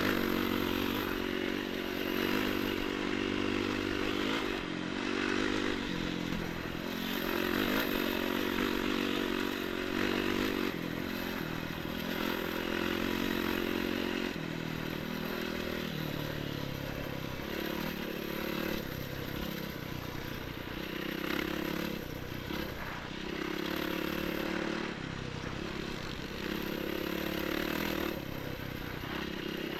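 Enduro motorcycle engine running as it is ridden, its pitch stepping up and down every few seconds with throttle and gear changes, over a steady rush of wind and rattle.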